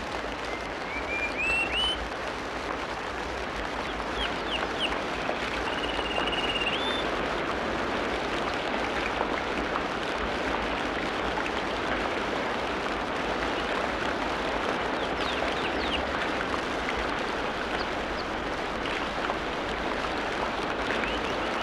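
Forest birds chirping and whistling over a steady rushing background: a few short rising chirps near the start, a held whistle with an upward flick at its end, and brief chirps later on.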